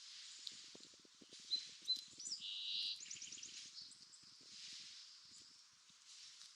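Bird calls: two short whistled notes, a rising glide, a buzzy call and then a quick rattling run of notes in the middle, over a steady high hiss and faint crackling rustles.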